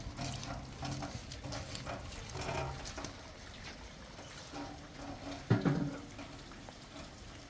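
Goats bleating: drawn-out calls in the first three seconds, then one short, louder bleat about five and a half seconds in.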